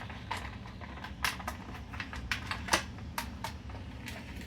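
Irregular small plastic clicks and taps from wiring-harness connectors and cables being handled and pressed into a washing machine's control board, a few sharper clicks among them.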